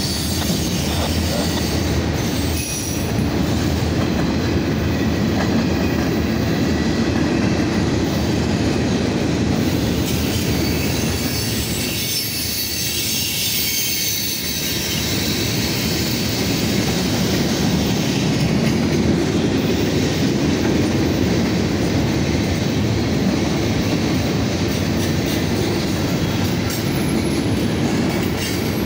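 Freight train of covered hoppers and autorack cars rolling past at close range: a steady rumble and rattle of steel wheels on the rails.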